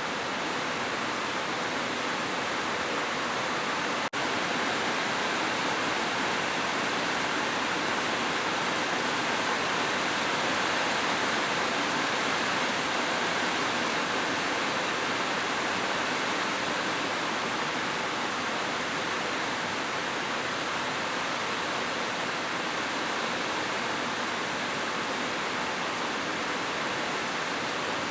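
Heavy rain falling steadily, a dense even hiss without separate drops, with a momentary dip in level about four seconds in.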